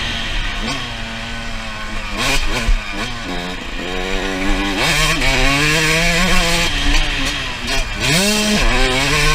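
Suzuki RM125's single-cylinder two-stroke engine running hard, its pitch rising and falling again and again as the throttle is worked, over a steady rush of wind noise.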